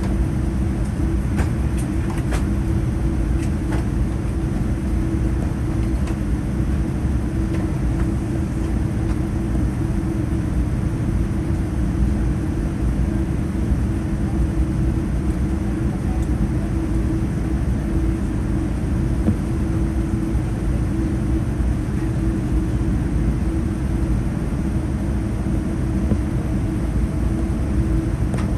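Steady low cabin rumble inside a Boeing 787-9 on the ground after landing, with a constant hum underneath. A few faint ticks come in the first few seconds.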